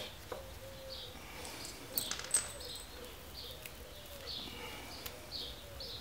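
Small birds chirping over and over, short high chirps every half second or so. A few sharp clicks about two seconds in, from bolts and tools being handled at the motorcycle's rear brake bracket.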